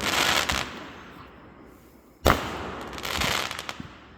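Aerial fireworks bursting: a sharp bang a little past two seconds in, trailing off in a rumble and a quick scatter of crackling pops, with the fading tail of an earlier burst at the start.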